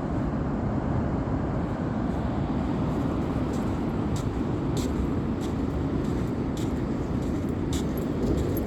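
Ocean surf with wind on the microphone: a steady low rumbling rush, with a few faint clicks.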